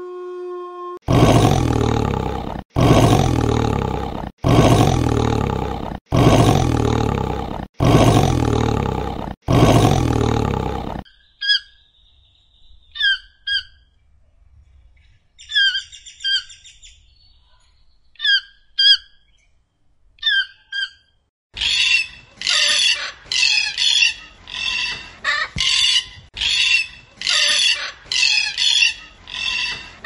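Animal sounds in a row: six loud roars about a second and a half apart, then about ten seconds of short, scattered bird chirps, then a fast run of harsh, repeated squawks like a macaw's.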